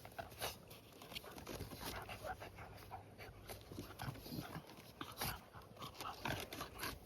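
A pet dog panting, with scattered small clicks and rustles.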